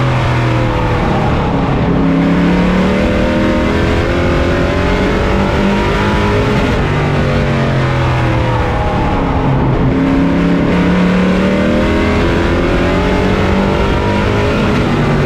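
Pro racing truck's engine heard from on board at race pace, its revs dipping twice and climbing again as the truck laps.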